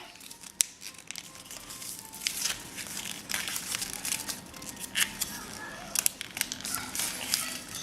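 Sheet of paper being folded and creased by hand: irregular rustling and crinkling with short, sharp crackles as the folds are pressed down.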